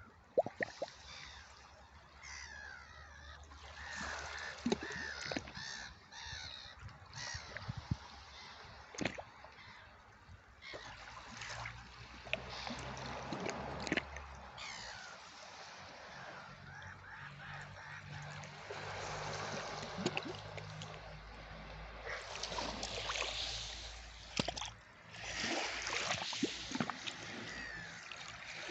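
Sea water washing and lapping in swells, with birds calling over it; the water grows louder near the end.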